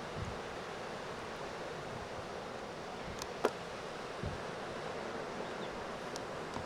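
Steady wash of ocean surf, with a few faint low thumps and one sharp click about three and a half seconds in.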